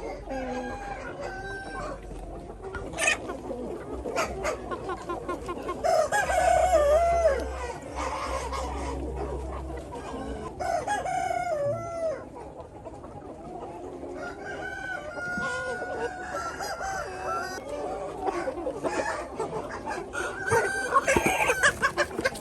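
A flock of chickens clucking and calling over one another, with a rooster crowing and louder squawks near the end.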